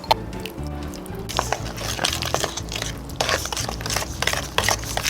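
Soft background music under irregular clicks and clatter with bursts of hiss, the sound of food being handled in cookware; the clatter starts about a second in.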